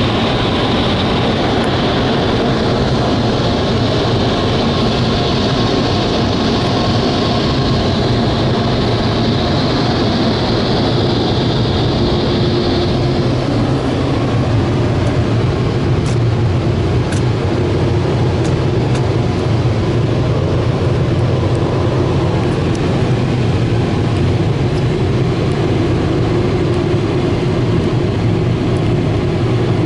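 Ryko SoftGloss XS in-bay car wash machinery running: a loud, steady rush of air or water over a low hum, with a higher hiss that cuts off about 13 seconds in.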